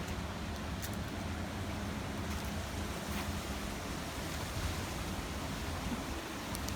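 Steady outdoor background noise: an even hiss with a low, constant hum underneath, with no distinct events.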